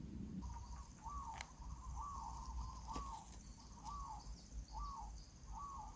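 Faint short, arched animal calls repeated about every two-thirds of a second, over a steady high-pitched insect trill.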